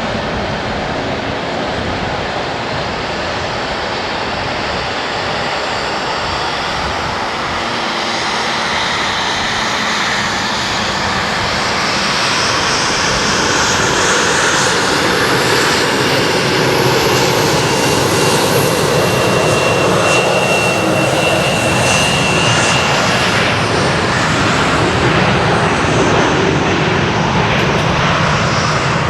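Jet engines of a Lufthansa Airbus A321neo landing, a broad rushing roar that builds and peaks about two-thirds of the way through, with a thin high whistle heard through the middle.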